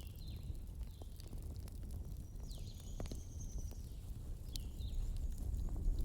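Wood fire burning in a fireplace: a low steady rumble of flames with scattered sharp crackles and pops, and a few faint high squeaks and a short whistle from the burning wood.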